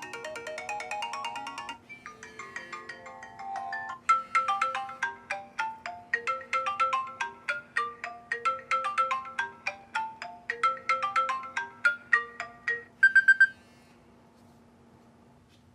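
Apple iPhone 5S ringtones playing one after another. A rising arpeggio tone cuts off about two seconds in, and a short different pattern follows. From about four seconds in, a melody of quick plucked notes repeats, ends with a brief run of short high notes, and then it goes near quiet over a faint steady hum.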